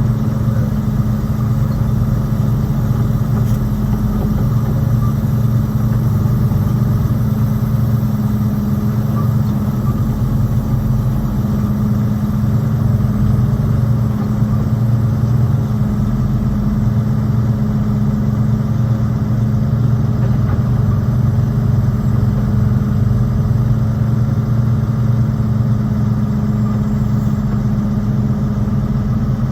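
Diesel engine of a semi truck idling steadily, with an even low hum that does not change.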